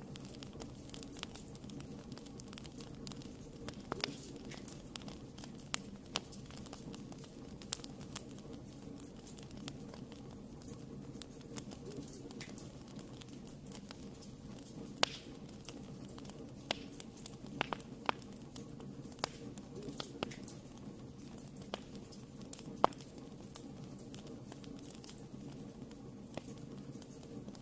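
Wood fire burning in a fireplace: a steady low rumble of flames with irregular sharp crackles and pops, a sharper pop about 23 seconds in.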